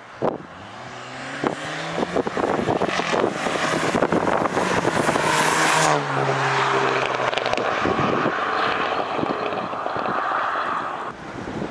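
Audi A4 2.0-litre turbo four-cylinder accelerating hard through a valved ECS Tuning exhaust, its pitch climbing and getting louder. About six seconds in the pitch drops sharply, like an upshift, and the engine pulls on more steadily after that.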